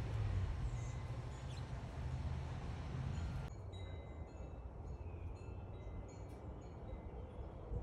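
Backyard songbirds giving faint, scattered chirps over a steady low rumble, which drops away about halfway through.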